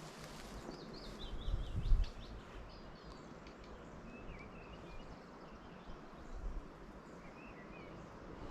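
Songbirds chirping and singing in short phrases over a quiet outdoor background, with a brief low rumble about a second and a half in.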